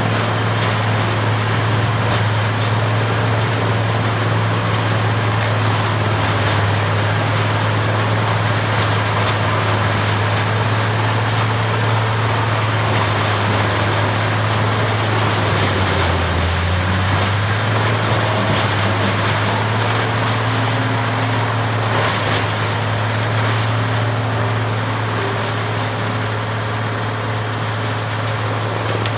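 Peterson 2710D horizontal wood grinder running steadily while grinding wood, a loud engine drone under a continuous grinding noise. The engine note dips briefly about halfway through.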